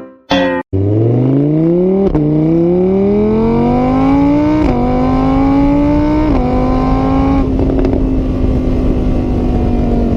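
An engine accelerating, its pitch climbing steadily and dipping briefly three times as if shifting gears, then holding at a steady pitch.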